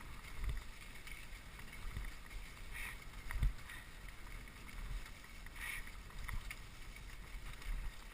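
Dog sled running over a snow trail: the runners hiss and swish steadily, with a few low thuds from bumps in the trail and brief brighter swishes about every three seconds.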